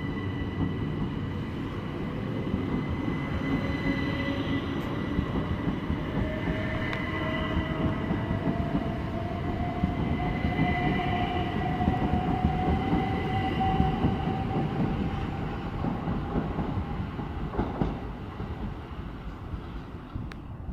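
Electric multiple-unit train moving through the station: a steady rumble of wheels on rails with a motor whine that rises slowly in pitch as the train picks up speed, easing off near the end.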